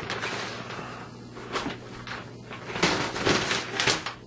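Handling noise from a cardboard fireworks cake being moved and turned over: a handful of short scrapes and knocks, the loudest cluster near the end.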